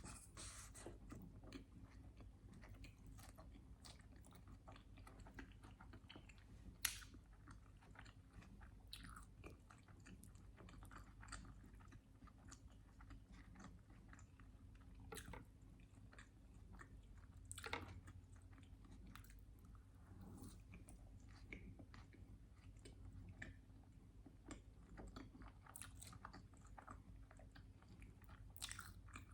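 Faint, close-miked chewing of a sandwich with syrup: a steady scatter of small mouth clicks and smacks, with a few sharper clicks, the sharpest about seven seconds in.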